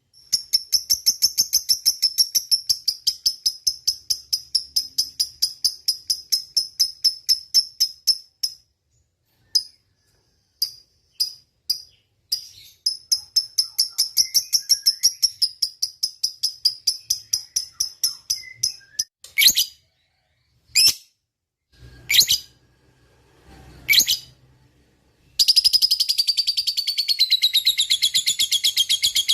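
Lovebird's long chattering 'ngekek' song: long runs of rapid, evenly spaced high chirps, about six a second, broken by short pauses and a few single sharp calls, then a denser unbroken run near the end.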